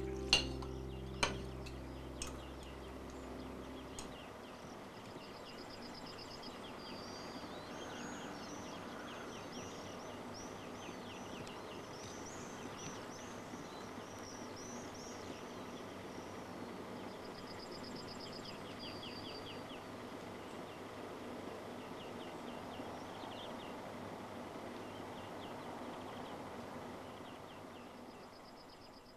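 Small birds singing, repeated trills and quick chirps over a steady outdoor background. The last held notes of music die away in the first few seconds, and the sound fades out near the end.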